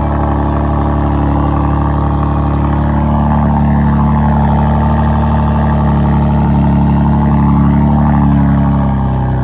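Saab 9-3 Aero's 2.8 turbocharged V6 running through a muffler-deleted 2.5-inch exhaust, its revs climbing slowly and then falling off near the end.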